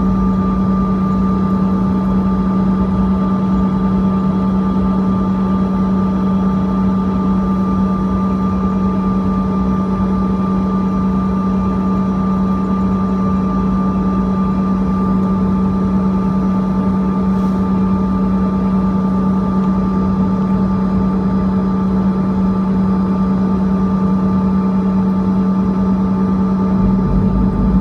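Steady cabin drone of a Bombardier CRJ-200's turbofan engines, a constant hum with a strong low tone and fainter higher whines held steady over airflow noise, with a brief swell of low rumble near the end.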